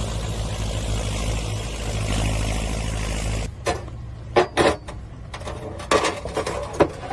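A vehicle engine running steadily, then after an abrupt cut a few short, sharp knocks over a quieter background.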